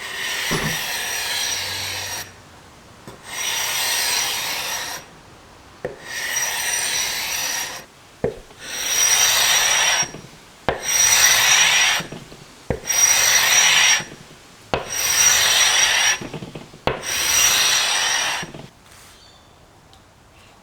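A hand scraper drawn across the old finish on the underside of a wooden tabletop in eight long strokes of about two seconds each, each with a thin steady high whistle from the blade and a light knock as it is set down.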